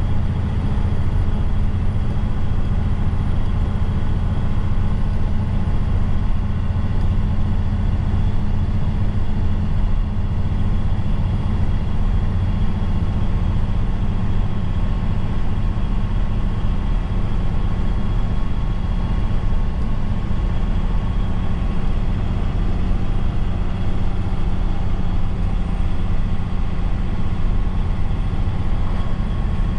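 Truck engine running steadily under way, with road noise and a low drone.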